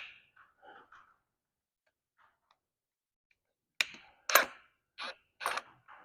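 Strut spring compressor clamps clinking against the coil spring as they are handled. A few seconds of near quiet, then about five short, sharp metallic clicks and knocks, irregularly spaced, starting about four seconds in.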